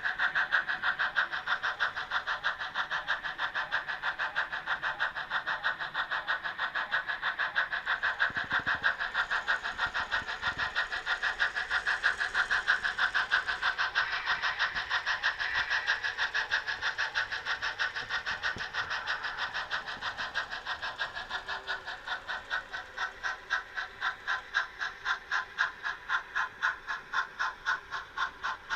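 On30 model Shay locomotive running along the layout, making a steady rhythmic beat of about four pulses a second that grows quieter about two-thirds of the way in.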